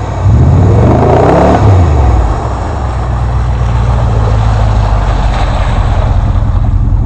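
Vehicle engine revving hard while driving through mud, its pitch rising and falling over the first two seconds, then running steadily at lower revs.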